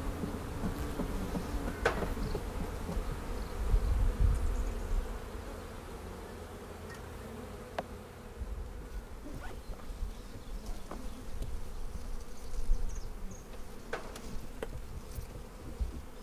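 Honey bees buzzing in a steady hum around an opened hive, with a few short, light clicks scattered through.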